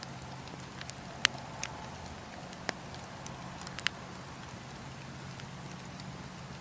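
Wood bonfire crackling, with a handful of sharp pops, the loudest about a second in, over a steady low hum.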